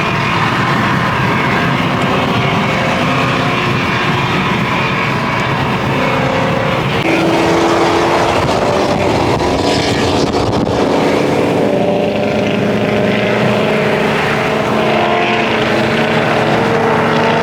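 Several car engines running together as cars pull out of a car meet, with a number of engine tones at different pitches overlapping.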